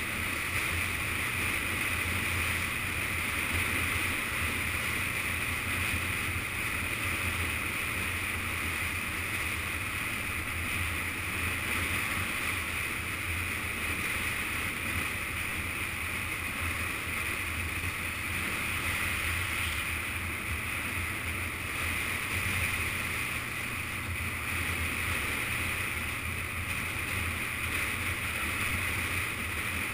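Yamaha FZS600 Fazer's inline-four engine running at a steady cruise, mixed with steady wind rush on the camera's microphone as the motorcycle rides along.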